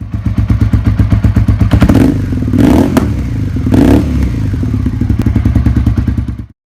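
Suzuki SV650's V-twin engine running with a fast pulsing beat, swelling louder twice in the middle, then cutting off suddenly near the end.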